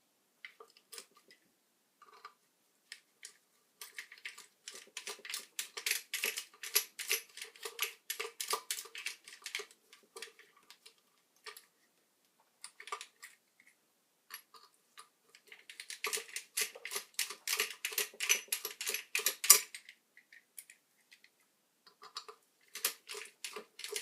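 Rapid runs of small sharp clicks: two longer runs of several seconds and a short one near the end, with scattered single clicks in between.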